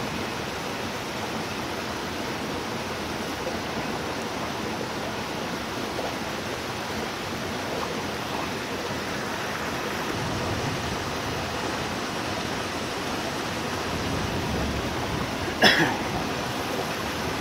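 Steady hiss of rain falling, mixed with the rush of water. Near the end comes one brief, sharp sound.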